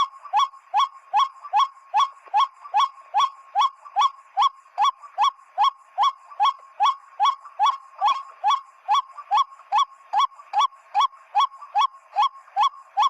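Monotonous white-breasted waterhen 'ruak' calling: short, curved, mid-pitched notes repeated very evenly about two and a half times a second, without a break.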